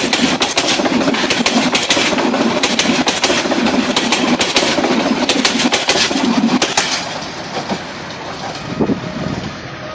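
A passenger train passing at speed, its wheels clattering rapidly over the rail joints. About seven seconds in the coaches clear and the sound drops away to a fainter, duller rumble.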